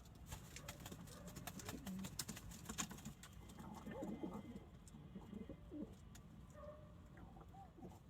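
Domestic pigeons cooing, low gliding calls clustered in the middle, with scattered light clicks in the first few seconds.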